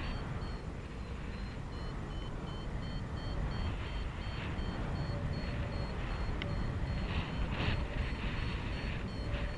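Wind rushing over the microphone in flight, with a paragliding variometer beeping in a steady string of short high beeps, the instrument's signal that the glider is climbing.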